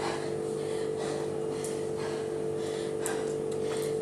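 A person breathing hard after a hard cardio interval, with a breath about every half second to second, over a steady low hum.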